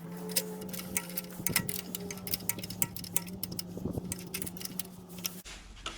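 Ratchet wrench clicking in quick, irregular runs as the pressure washer pump's bolts are tightened, over a steady low hum that stops near the end.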